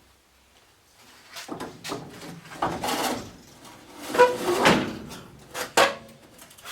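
Heavy steel truck door being handled and fitted onto its hinges: a run of irregular clunks and scraping, with sharp metal knocks about four and six seconds in.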